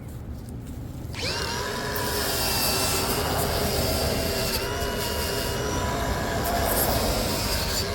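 Angle grinder with a wire brush starting up about a second in and running with a steady high whine, scrubbing old paint off a fire hydrant's hold-down nut.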